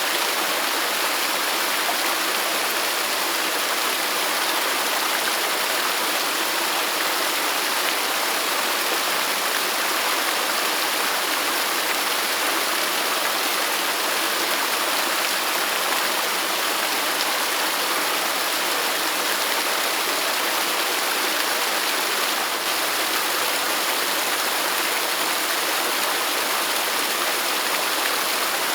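Waterfall and stream water rushing steadily in an even, unbroken hiss.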